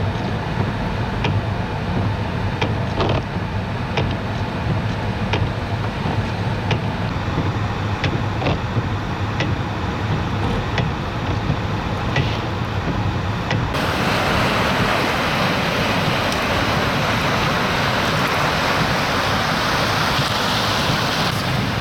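Storm wind rushing over the microphone and coastal storm surf, a steady low rumble with scattered sharp ticks. About two-thirds of the way through it changes abruptly to a louder, steady hiss.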